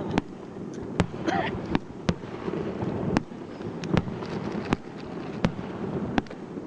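Aerial fireworks bursting in quick, irregular succession: sharp cracks and bangs, roughly two or three a second, over a steady rumbling haze.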